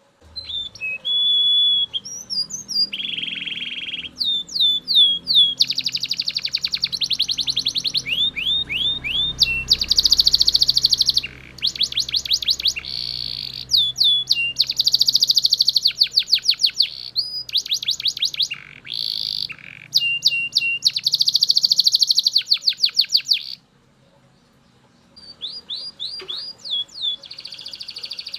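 Belgian canary singing: fast rolling trills alternating with rows of quick repeated sweeping chirps and short whistled notes, broken by a short pause near the end before the song picks up again.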